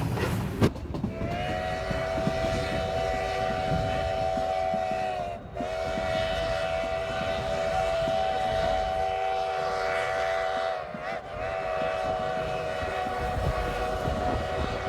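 Steam locomotive's chime whistle sounding three long blasts, a steady chord of several notes that sags slightly in pitch at the end of each blast, over the low rumble of the moving train.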